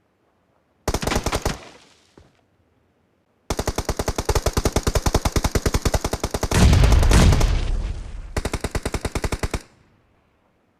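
Video game automatic gunfire: a short burst about a second in, then a long sustained burst of rapid, evenly spaced shots for about six seconds, with a heavy boom in its middle. The fire stops abruptly before the end.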